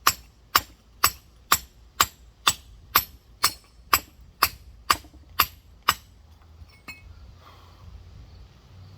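Rock hammer chipping around a geode's shell to shear it open: steady sharp, ringing blows about two a second, some thirteen in all, stopping about six seconds in, followed by a couple of faint clicks.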